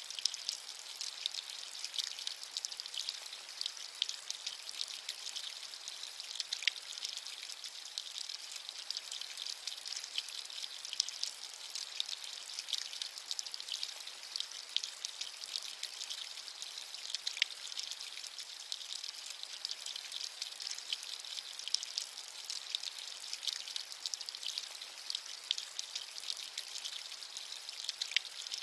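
Steady rain, dense patter of drops with many small crisp drop ticks over a high, even hiss and little low rumble.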